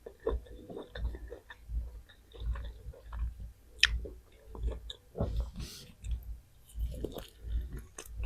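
A person chewing food close to the microphone, with wet mouth clicks in a steady rhythm of a little over one chew a second. There is one sharp click about four seconds in.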